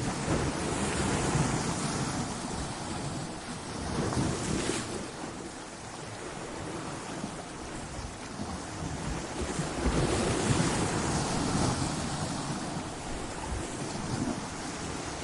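Ocean waves crashing against rocky shore in a steady rush of surf. The wash swells at the start, again about four seconds in, and most strongly around ten seconds in.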